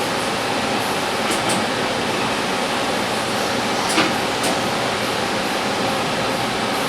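Sharp STA-4460 big bore CNC lathe running steadily, a constant machine hum and whir. A sharp click about four seconds in.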